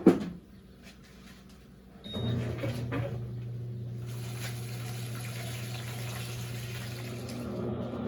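A click, then about two seconds in the Electrolux LAC16 washing machine's water inlet valve opens and water rushes into the tub with a steady low hum: the machine filling for the rinse stage.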